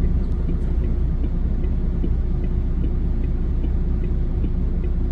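Steady low rumble of a motor vehicle on the move, with a faint regular ticking about three times a second.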